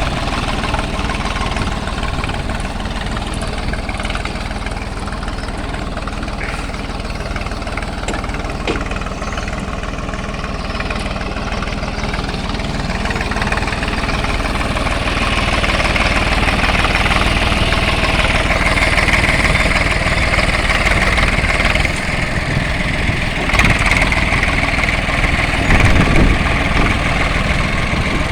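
Tractor engine running steadily, with a higher-pitched noise that grows louder about halfway through.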